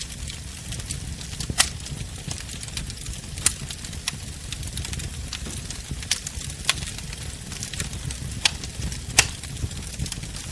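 Wood bonfire burning: a steady low rumble and hiss with sharp crackles and pops every second or so, the loudest about one and a half, three and a half and nine seconds in.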